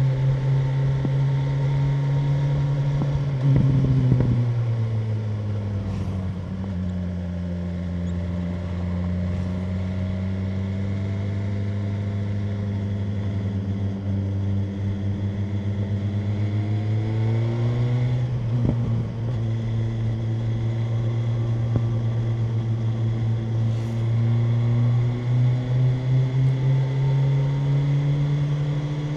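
BMW M1000R Competition's inline-four engine running on the move. Its note drops sharply about four seconds in and stays lower for a while, then rises from about eighteen seconds in and climbs again near the end.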